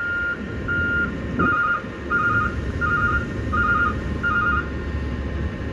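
A refuse truck's reversing alarm beeping about once every 0.7 seconds over a low diesel engine rumble. Partway through, the beeps turn into a doubled two-tone pulse, and they stop a second or so before the end as the truck finishes backing.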